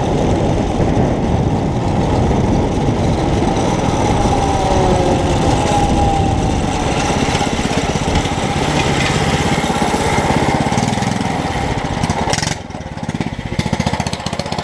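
Mini bike's small engine running under throttle. About two-thirds of the way through the sound drops suddenly and settles into a quicker, steady putter.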